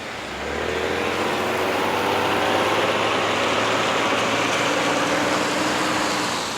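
Motor vehicle engine running close by, over wind noise on the microphone. It comes up about half a second in, holds steady, and fades near the end.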